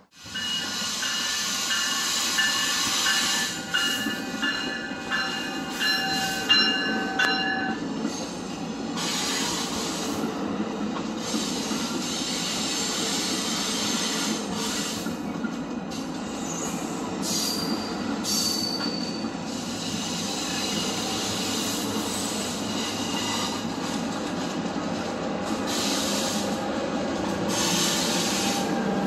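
Exo commuter train rolling on the rails, a steady rumble with wheel squeal: several high tones at once over the first eight seconds or so, then a few shorter, thinner squeals midway.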